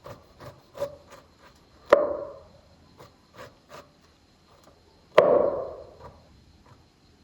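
Two heavy knocks on wood about three seconds apart, each with a short ringing decay, among lighter taps and clicks.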